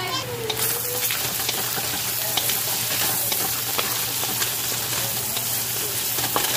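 Pork pieces sizzling in hot oil in a wok while a wooden spatula stirs them, with faint scraping taps against the pan. The sizzle swells about half a second in and then holds steady.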